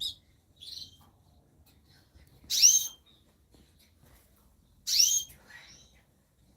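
Small songbirds calling: two loud, short, upward-sweeping whistled calls about two and a half seconds apart, with softer brief chirps in between.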